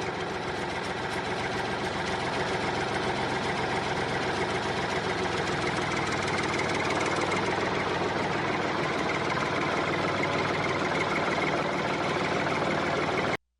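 Small motor running steadily, cutting off suddenly near the end.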